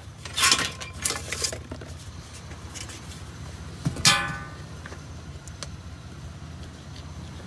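Scrap aluminum pieces being handled: two scraping rattles in the first second and a half, then, about four seconds in, a sharp metal clank that rings briefly. A steady low hum runs underneath.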